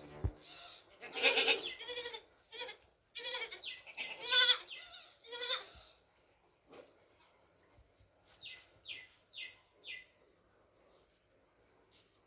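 Baby goats bleating, several loud wavering calls in quick succession over the first half, then quiet. Four short high-pitched squeaks follow near the end.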